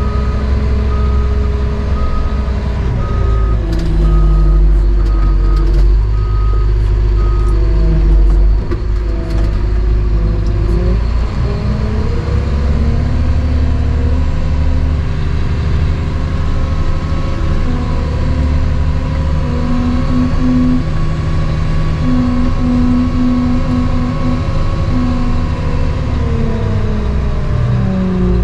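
Cat 725 articulated dump truck's diesel engine running under load while it is maneuvered, its pitch dropping a few seconds in, climbing again and falling near the end. Its backup alarm beeps steadily for the first several seconds while it reverses, then stops.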